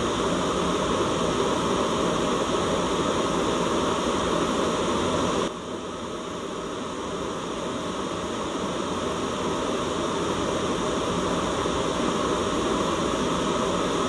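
Steady white-noise hiss. About five and a half seconds in it suddenly drops in level, then builds back up over the next several seconds.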